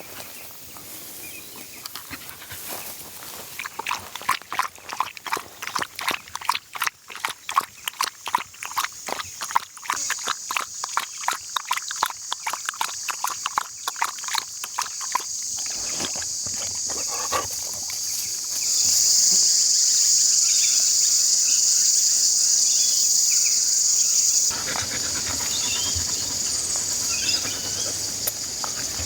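A dog lapping water, a quick run of wet laps about five or six a second that stops about halfway through. A steady high insect drone sets in under it and grows louder for a few seconds later on.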